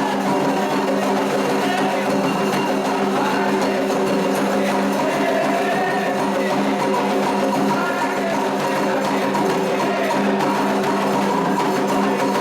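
Candomblé ritual music: drums and other percussion with a dense, steady beat, and voices singing over it.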